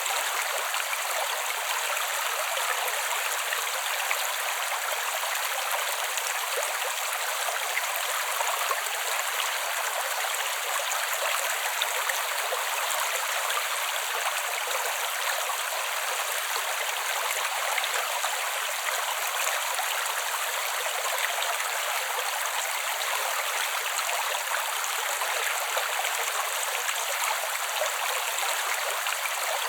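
A small creek flowing steadily, an even rush and trickle of water with no low rumble.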